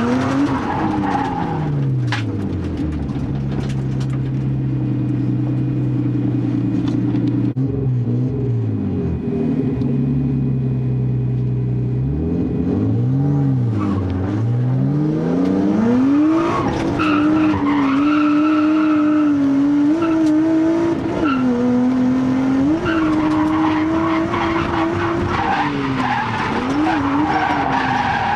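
Nissan RB20DET turbocharged straight-six of an R32 Skyline, an engine with single-digit compression, drifting. Revs rise and fall, hold steady for about ten seconds, then dip and climb. Through the second half the engine stays high and wavering while the tyres squeal in a slide.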